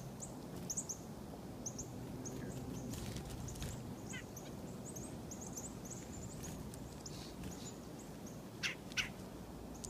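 Chickadees giving many short, high chip calls, with a short falling run of notes about four seconds in. A few sharp clicks stand out, two of them near the end.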